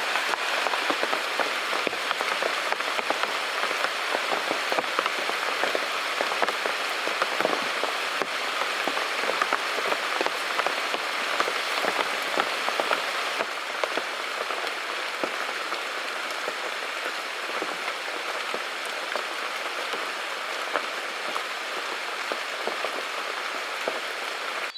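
Steady rain falling, a dense hiss full of small drop hits, stopping abruptly at the very end.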